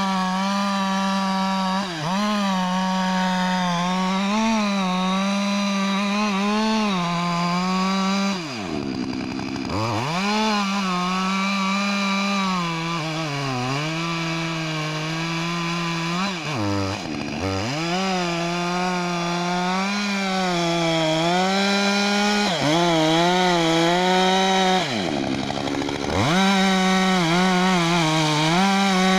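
Husqvarna 562 XP two-stroke chainsaw running at high revs while cutting wood, its pitch wavering under load. Three times the revs drop sharply toward idle and climb straight back up.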